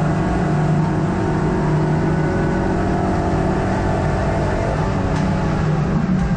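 Hot hatch race car's engine heard from inside the cabin, running hard at high revs under load. The pitch holds fairly steady, dips slightly about four to five seconds in, then climbs again near the end.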